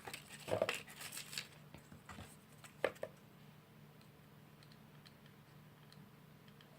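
Light clicks, taps and rustling of small paper and cardboard craft pieces being handled, busiest in the first three seconds with a sharp tap about three seconds in, then only faint ticks.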